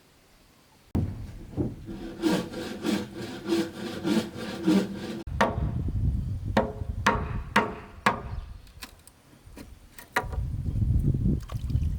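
Hand saw cutting wood, at about three strokes a second, followed by a series of sharp knocks.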